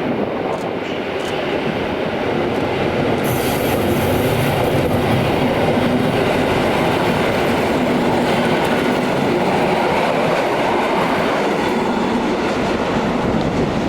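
A train running past close by, loud and steady. A high hiss sets in sharply about three seconds in, and the sound eases off near the end.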